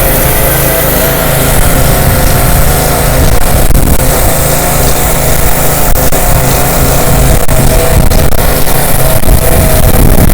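Pressure washer running steadily, its engine humming under the hiss of the high-pressure water jet on concrete.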